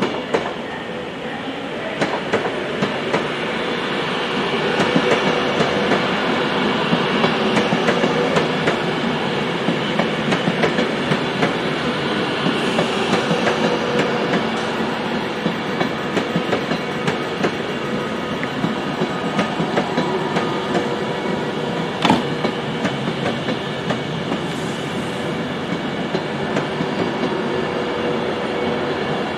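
A train passing at speed, its wheels clattering rhythmically over the rail joints above a steady hum, growing louder over the first few seconds. There is one sharper knock about three-quarters of the way through.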